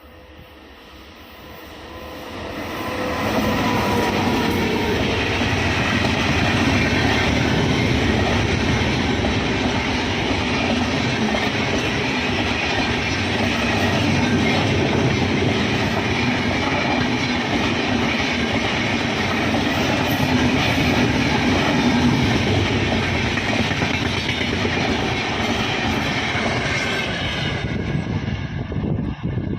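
Indian Railways express train, hauled by an electric locomotive, passing at speed, its coaches' wheels clattering over the rail joints. The noise builds over the first three seconds as the train arrives, then stays loud and steady as the coaches run by.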